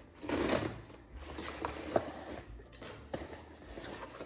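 Box contents being handled during an unboxing: a rustle about half a second in, then a few small clicks and taps.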